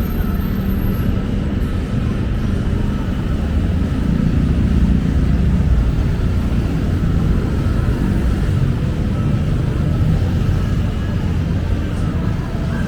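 Steady low rumble of busy city road traffic, engines and tyres passing continuously.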